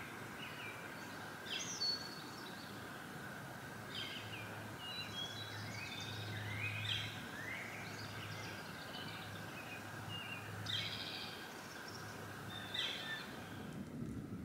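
Birds singing and chirping in short, repeated rising and falling phrases over a steady outdoor background hiss.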